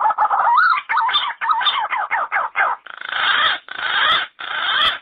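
Yellow-footed green pigeon singing: a run of wavering, gliding whistled notes, then three harsh, noisy notes in the last two seconds. The sound cuts off suddenly at the end.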